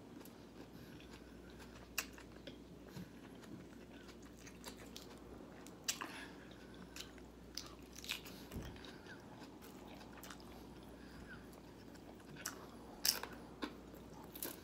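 A person chewing a lettuce-wrapped chicken taco close to the microphone: quiet chewing with scattered sharp crunches and mouth clicks, the loudest a little before the end.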